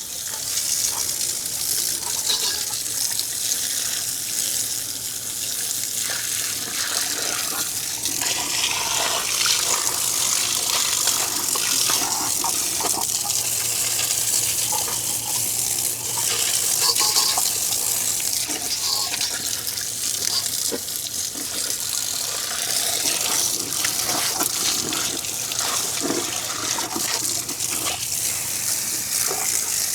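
Steady water spray rinsing aluminum brightener acid off a semi truck's aluminum wheel, with a faint steady low hum beneath.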